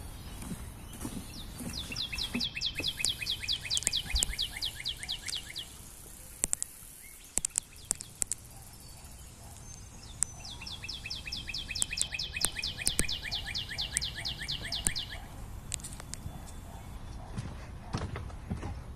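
A small bird sings two long, rapid trills of high, repeated, slightly falling notes, each lasting about four to five seconds, with a pause between them. A few sharp clicks fall in the pause.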